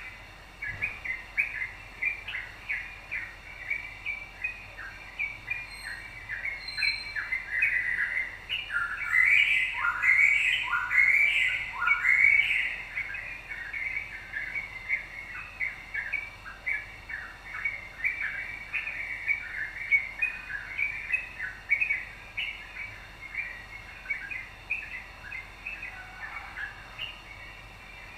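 Yellow-vented bulbul (trucukan) singing continuously in rapid, bubbly chirps, with a louder stretch of several falling notes about nine to thirteen seconds in.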